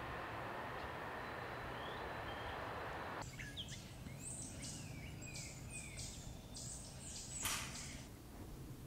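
Steady outdoor background noise that drops away about a third of the way in. A run of short bird chirps and calls follows, with a brief rustle-like burst of noise near the end.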